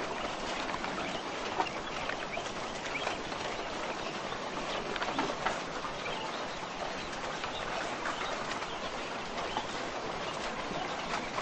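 A flock of caged laying quail (Japanese quail) calling and chirping, many short sounds overlapping into a continuous busy chatter with scratchy clatter mixed in.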